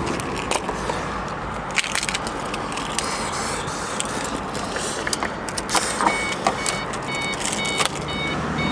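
2005 Ford Mustang GT's 4.6-litre V8 idling steadily, with scattered clicks. From about six seconds in, the car's warning chime beeps about twice a second.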